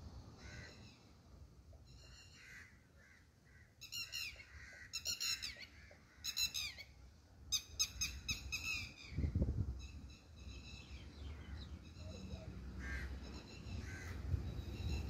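A bird calling in short, harsh repeated calls, singly at first, then in a quick run of several calls around the middle, then fainter toward the end. A low rumble runs underneath, with a brief low thump about nine seconds in.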